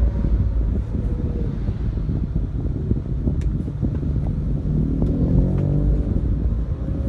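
Motor vehicle engine and road rumble, steady and loud, with wind on the microphone; a wavering engine tone rises and falls about five seconds in.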